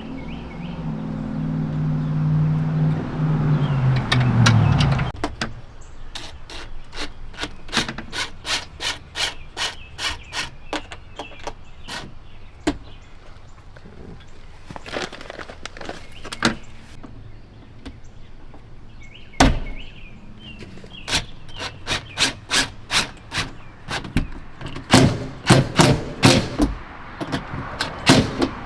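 A power drill runs for about five seconds, its pitch rising, while driving fasteners for a barn door latch. Then come a long run of sharp taps and clicks, about two a second, with a pause in the middle.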